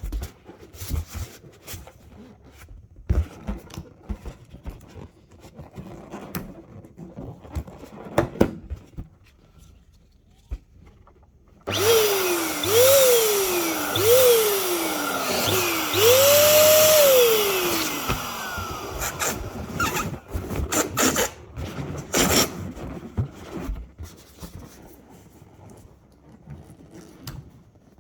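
Balloons being handled, with scattered rubs and clicks. About twelve seconds in, an electric balloon pump runs loudly for some seven seconds, with several squealing tones that fall in pitch as the balloon fills. After it stops there is more handling noise.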